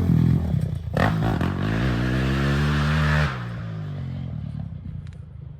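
Dirt bike engine under throttle, its pitch climbing steadily, with a sharp knock about a second in. Just past three seconds the throttle closes and the engine drops back, running quieter and fading toward the end.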